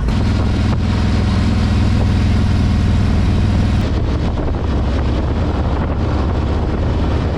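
Harley-Davidson V-twin motorcycle engine running steadily, a deep pulsing exhaust note; the note drops slightly about four seconds in.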